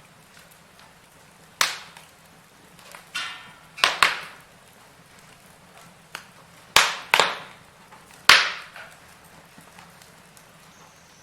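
Burning firewood crackling: about half a dozen sharp snaps and pops at uneven intervals, the loudest about eight seconds in, over a faint steady hiss.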